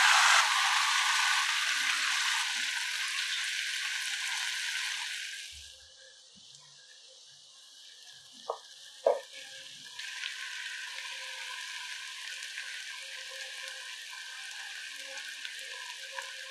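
Marinated chicken pieces sizzling loudly in hot oil in a nonstick frying pan. The sizzle drops away about halfway in, then two sharp taps of a fork against the pan as the pieces are turned, and a softer, steady sizzle follows.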